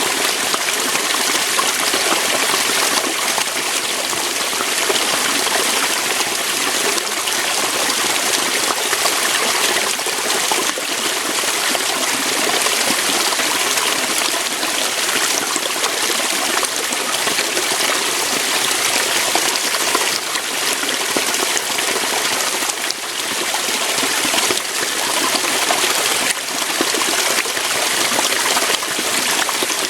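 Waterfall, water flowing steadily over rocks.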